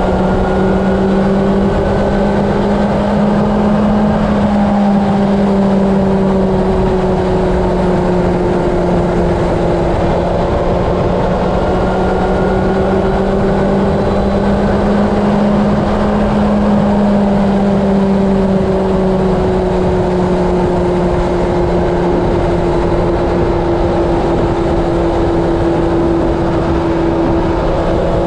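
A steady engine drone whose pitch drifts slowly up and down over several seconds, with a constant rushing noise beneath it.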